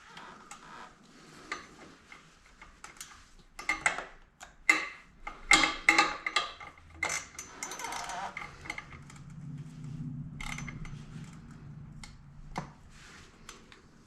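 Metal clicks and clinks of an oil filter wrench being worked on a motorcycle's oil filter to tighten it, with a quick cluster of sharp clicks a few seconds in and one more click near the end.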